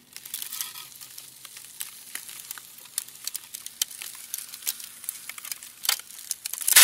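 Irregular crackling with many sharp clicks and ticks over a faint high hiss, ending in a sudden loud crash.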